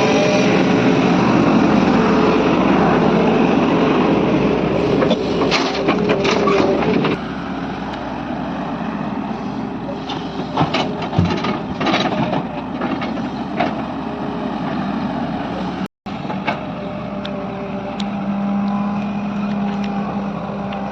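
Heavy construction machinery engines running, with sharp knocks and clanks from the machine's work. The sound drops in level about seven seconds in and cuts out for an instant about sixteen seconds in, where the footage is spliced.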